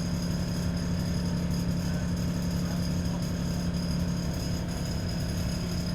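Diesel engine of an ADL Enviro 400 double-decker bus running steadily, heard from inside the bus, with a constant low hum and a faint steady high-pitched whine.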